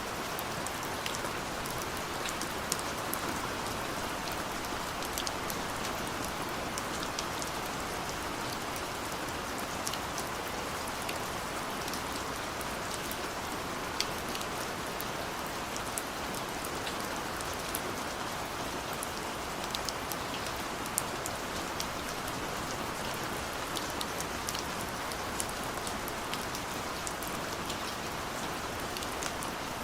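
Steady rain falling, with a constant hiss and many individual drops ticking sharply on a hard surface.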